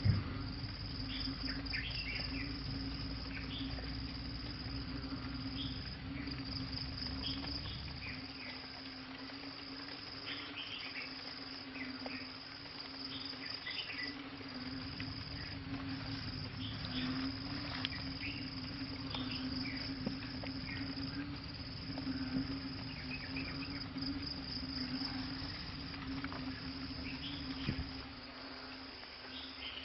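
Outdoor chorus of insects trilling steadily, with a high pulsing trill and a low pulsing drone, and short chirping calls scattered throughout.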